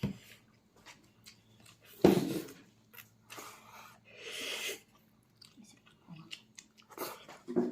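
A person chewing and eating pork leg close to the microphone: irregular wet mouth clicks and smacks, with one louder bite or smack about two seconds in.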